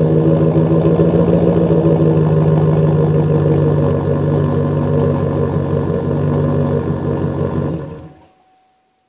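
2009 Chevrolet Silverado's 4.8-litre V8 running steadily through an SLP Loudmouth aftermarket exhaust, a deep even drone, then cutting off about eight seconds in.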